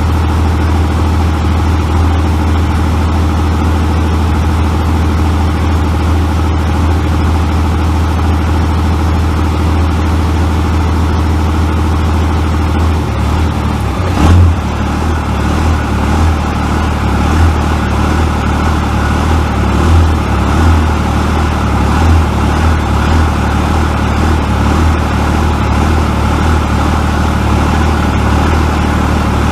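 Second-generation 24-valve Cummins 5.9-litre inline-six diesel idling steadily. About halfway through comes a brief thump as it is put into drive, after which the idle turns uneven and pulses in a mild lope, a little jiggle on the edge of a full lope, from the 84 mm injector lines.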